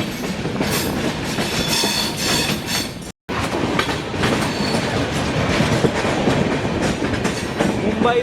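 Passenger train running on the track, heard from on board: a steady rumble with wheels clattering over the rails. The sound cuts out for an instant about three seconds in, then carries on the same.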